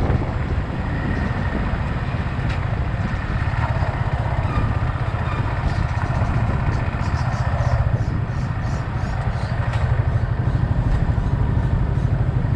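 Yamaha XSR 155's single-cylinder engine running with a steady low drone, at low speed or near idle, heard close up from the rider's camera.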